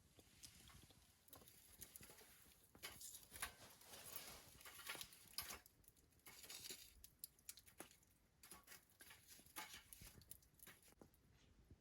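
Faint, irregular rustling and scratching with small clicks, coming in short bursts and busiest in the middle.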